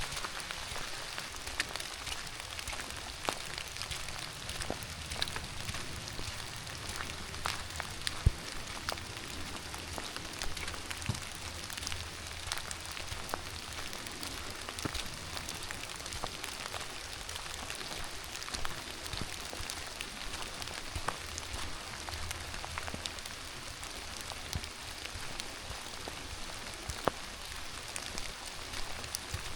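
Steady rain falling, an even hiss dotted with irregular sharp ticks of drops striking close by.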